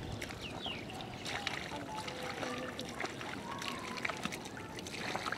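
Splashing and sloshing in shallow muddy water, with many short wet splats and clicks, from hand fishing in the mud. Faint voices can be heard in the background.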